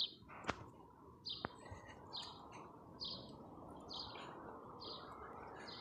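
A bird chirping over and over, about one short call a second, with two sharp clicks in the first second and a half.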